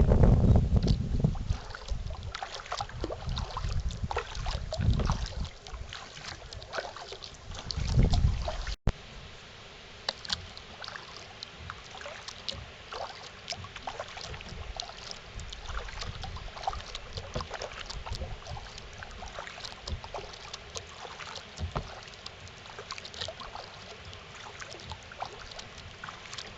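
Kayak paddle strokes in lake water: small splashes and drips that keep coming in a steady patter. For the first nine seconds or so, wind buffets the microphone in gusts; after an abrupt change the wind drops away and the splashing and dripping are clearer.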